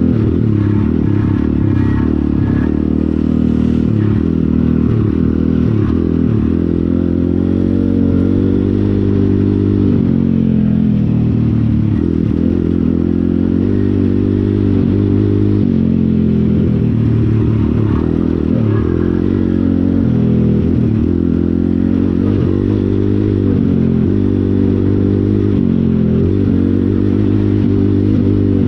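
Pit bike engine running under way, the revs repeatedly rising and falling as the throttle is opened and closed.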